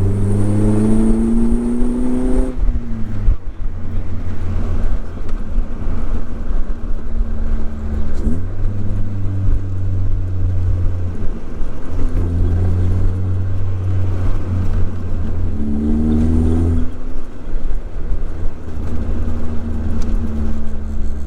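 Engine-swapped classic Mini with a Vauxhall 1.6 16-valve engine, driving. The engine note climbs under acceleration near the start, drops sharply just after two seconds, runs steady, then climbs and drops again about sixteen seconds in.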